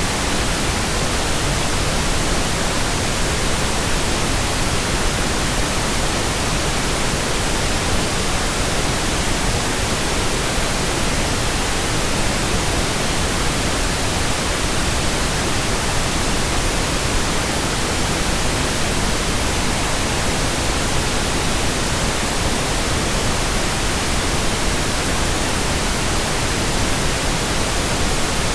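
Steady, unbroken white noise: an even hiss spread across all pitches, with no change in level.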